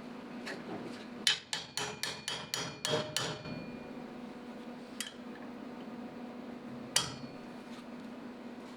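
Hammer tapping on steel: about eight quick, sharp ringing metal strikes over two seconds, then two single knocks, against a low steady shop hum. The tapping shocks a heated, rust-seized broken bolt before it is backed out.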